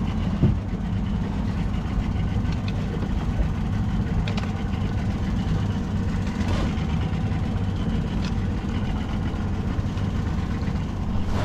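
Boat's outboard motor idling steadily, with a few light knocks about four, six and a half and eight seconds in.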